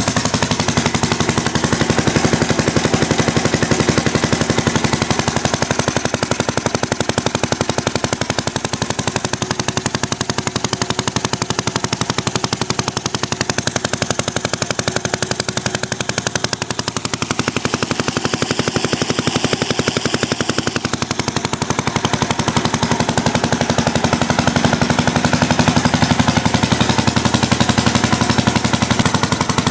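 Old Villiers stationary engine on a centrifugal water-pump set running steadily, with a fast, even exhaust beat. It is running well after a clean-up and service, having stood unused for about 40 years.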